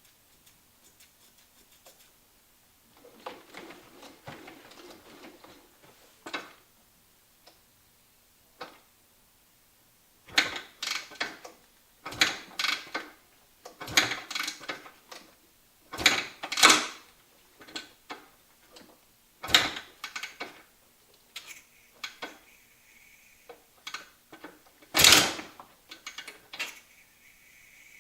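Irregular bursts of metallic clanking and rattling from the 1985 Maico 500 dirt bike as its kick-starter is worked, with the engine not running. The loudest clank comes near the end.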